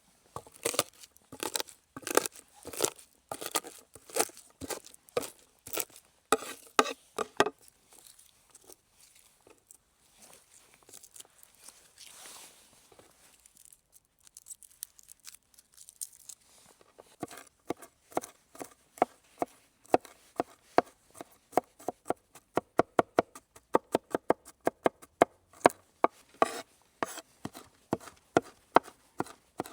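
Knife chopping food on a cutting board. The cuts are irregular at first, and after a short pause they become a fast, even run of chops, about three or four a second.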